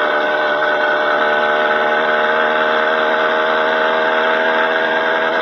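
Motorized bicycle's small engine idling steadily at a standstill.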